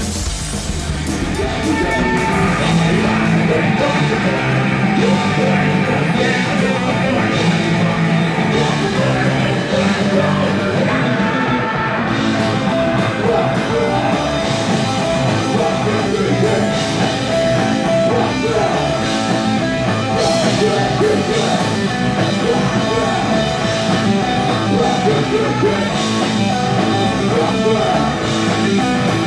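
A punk rock band playing: electric guitars and a drum kit at a fast, steady beat, with a singer's voice over them.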